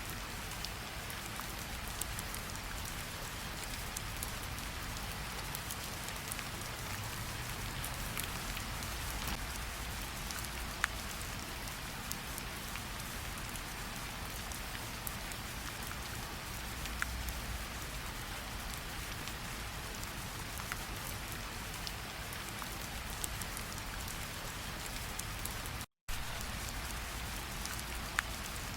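Steady rain falling, an even hiss with single close drops ticking sharply now and then. The sound cuts out completely for a split second near the end.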